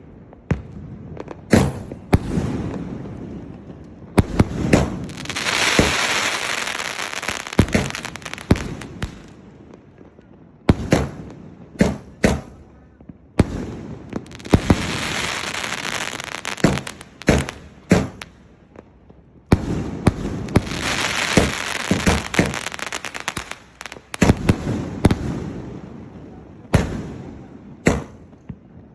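A 2½-inch 30-shot aerial firework cake firing: a string of sharp shots and bursts, with three long stretches of dense hissing, about five seconds in, a third of the way through and again past the middle.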